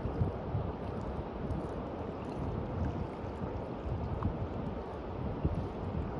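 Sea washing on the beach under steady wind buffeting the microphone, a continuous low rumbling noise.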